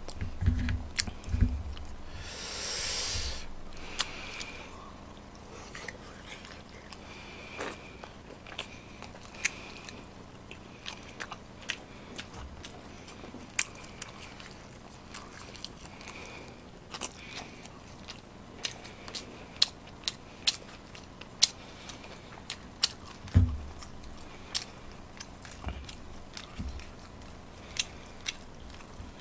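A person eating close to the microphone: chewing with many sharp wet mouth clicks and smacks throughout. A breathy hiss about two seconds in, and a few low thumps near the start and again about 23 seconds in.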